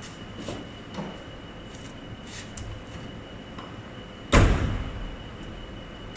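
A few faint clicks, then one heavy thump about four seconds in that dies away quickly, over a steady faint high-pitched tone.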